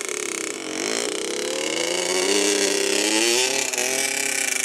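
Small off-road vehicle engine accelerating, its pitch climbing steadily for about three seconds and then dropping off as it eases.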